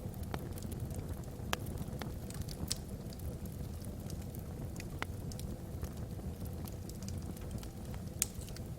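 Wood logs burning in a fireplace: a steady low rumble of flame with irregular sharp crackles and pops, a few louder pops scattered through.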